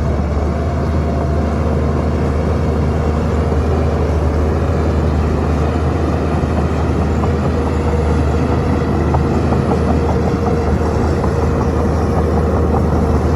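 Shantui bulldozer's heavy diesel engine running steadily at working speed, a deep, even hum with a light clatter over it.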